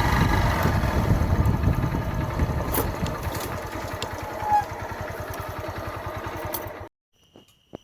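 A motorcycle engine running with a dense low pulsing, loud at first and then gradually fading. It cuts off abruptly about seven seconds in.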